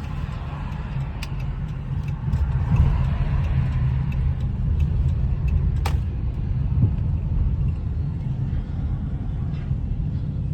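A car's engine and road rumble heard from inside the cabin while driving slowly, a steady low drone, with a couple of sharp clicks about a second in and near the middle.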